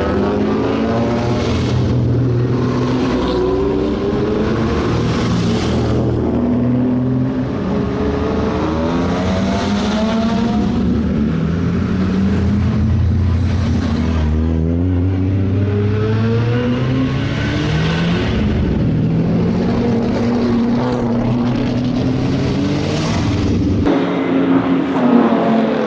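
Classic racing car engines running loud, several at once, their pitch climbing and dropping again and again as they rev. The sound changes abruptly near the end.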